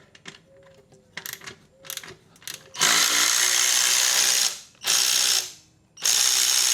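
Cordless electric ratchet wrench loosening a bolt, running in three bursts: a long one nearly three seconds in, a short one about five seconds in, and another from about six seconds on. Before the bursts come a few light clicks of the tool being set on the bolt.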